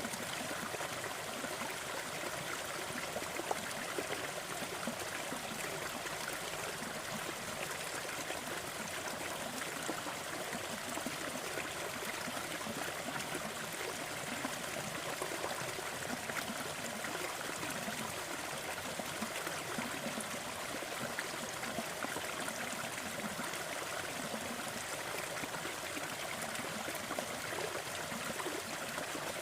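Steady rushing noise with faint, scattered crackles and pops from a fireplace fire.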